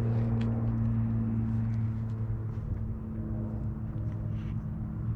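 Electric mountain bike being ridden: a steady low motor hum with faint scattered ticks, over a low rumble of wind on the microphone.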